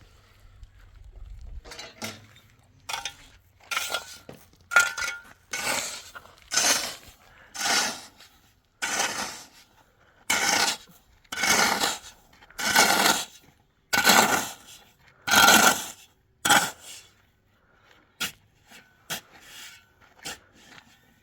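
Metal shovel scraping through sand and cement, mixing mortar by hand: about fifteen scrapes, roughly one a second, then a few light clicks near the end.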